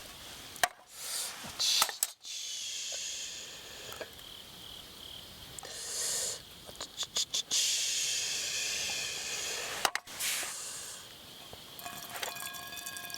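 Hot water poured from a bottle into used camp cookware in several pours, each a hissing rush of water, with sharp clicks of bottle and utensils between them. A faint ringing tone comes in near the end.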